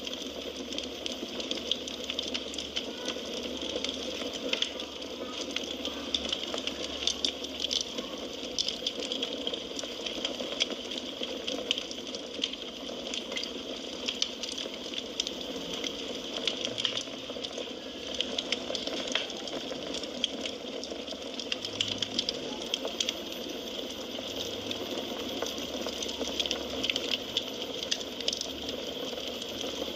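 Wood fire burning in a fireplace, with a steady hiss under frequent small crackles and pops.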